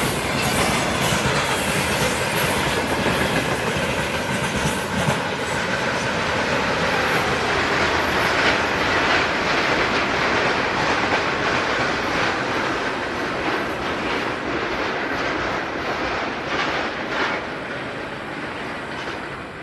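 Freight train wagons rolling past at speed, wheels clacking over rail joints in a steady dense rumble that eases slightly near the end.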